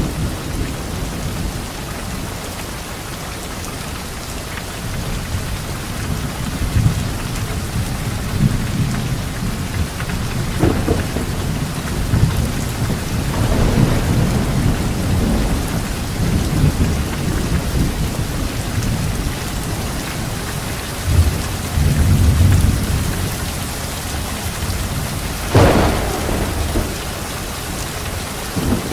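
Steady rain falling on leaves, with thunder rumbling low and swelling on and off throughout. A sharper, louder thunderclap comes about three quarters of the way through.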